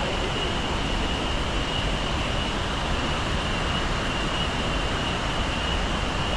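Steady roar of the Salto Bossetti waterfall at Iguazú Falls, a constant, even rush of falling water, with a thin steady high-pitched whine running over it.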